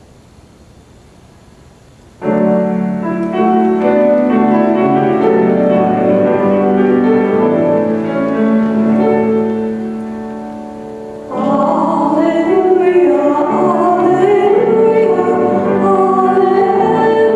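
Quiet room tone, then about two seconds in a keyboard starts playing sustained chords as an introduction, dipping lower around ten seconds in. About eleven seconds in, singing begins over the keyboard accompaniment: liturgical music sung between the readings.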